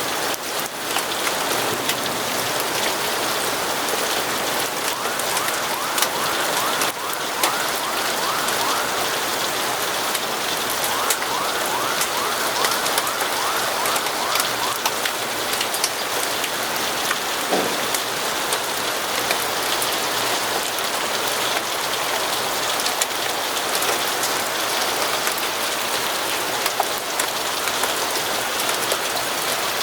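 Steady, even rain falling, with scattered sharp clicks and crackles throughout. Twice, for a few seconds each, a rapid run of short repeated chirps sounds faintly over the rain.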